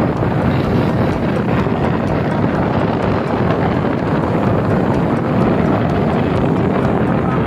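Fire boat's engine running steadily, with wind buffeting the microphone as the boat moves.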